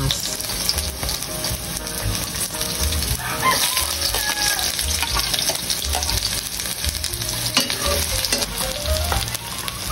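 Sliced red onion and garlic sizzling in hot oil in a nonstick wok, with a spatula scraping and stirring them around the pan.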